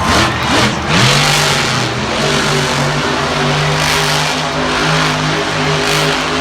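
Monster truck's supercharged V8 engine revving in quick rises and falls, then held at a steady high pitch from about a second in, with repeated surges of roar.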